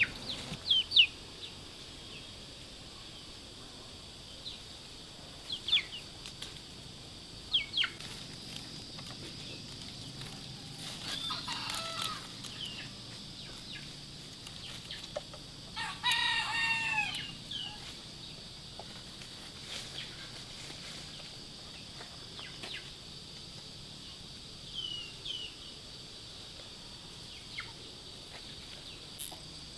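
A rooster crows, twice with the second and louder crow about halfway through, among short high falling chirps scattered throughout from chickens.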